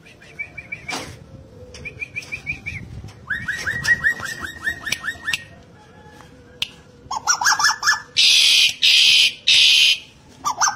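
A bird calling in runs of quick, repeated down-slurred notes, then three loud, harsh, rasping bursts near the end.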